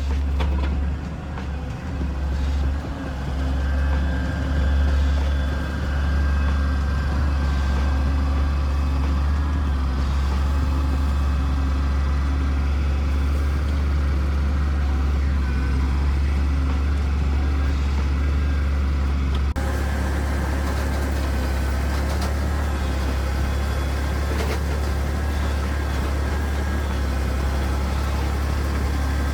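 A large engine running steadily with a deep, even drone and no change in speed, typical of a truck.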